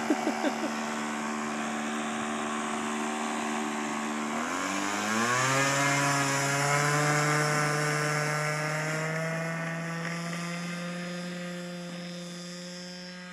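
Glow-fuel engine of a radio-controlled Hangar 9 P-51 model plane passing close by: a steady, buzzing engine note that drops sharply in pitch about five seconds in as the plane goes past, then slowly fades as it flies away.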